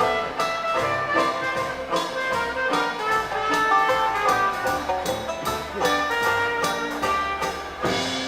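Jazz dance orchestra playing 1920s–30s-style music, with brass over a steady beat.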